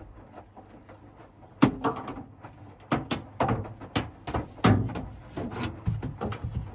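An irregular run of knocks and thuds, several a second, starting about a second and a half in.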